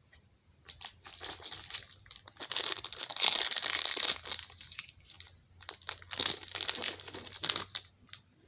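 Plastic crinkling and rustling as it is handled and scrunched, in irregular spurts that are loudest near the middle and die away just before the end.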